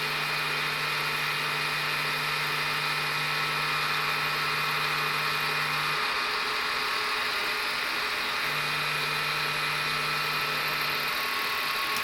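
Aciera F1 milling machine running steadily, its end mill cutting a step into a copper dial blank, with a whine of several steady tones. A low hum drops out for a couple of seconds in the middle and again near the end.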